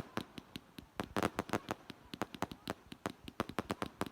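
Fireworks going off: an irregular, rapid string of sharp bangs and cracks, several a second.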